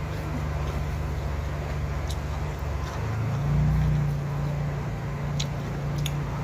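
A steady low motor hum that swells a little after three seconds in, with a few light clicks.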